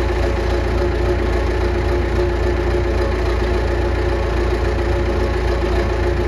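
Case 850B dozer's diesel engine running steadily at idle, a constant low drone with a steady hum on top.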